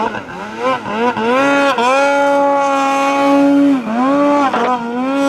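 Snowmobile engine under throttle, its pitch falling and climbing again several times as the rider works the throttle, held high and steady for a couple of seconds in the middle.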